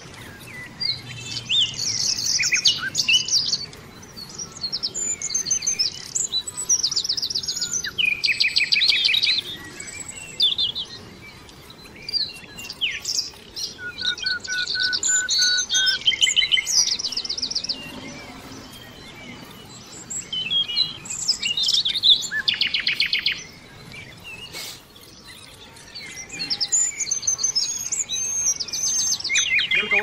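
Songbirds singing: bouts of fast, high trills and chirps with short pauses between them, and one short run of evenly spaced notes partway through.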